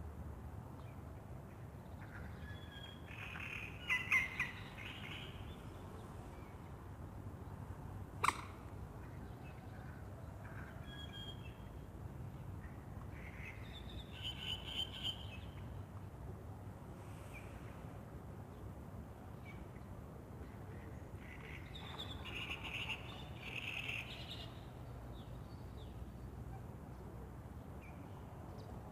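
Songbirds singing in three short bouts of chirps and trills, about four, fourteen and twenty-three seconds in, with a sharp single note or click near eight seconds, over a faint steady low rumble.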